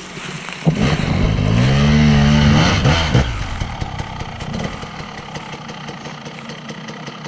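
Enduro dirt bike engine revved up, held high for about two seconds, then dropping back to a low, steady run with light clattering.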